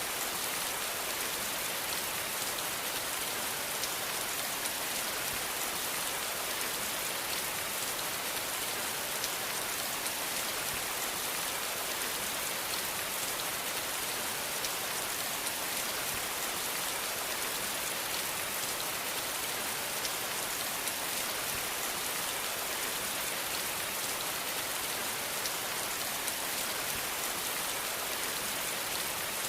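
Steady rain falling, an even hiss of many drops with fine patter, no thunder.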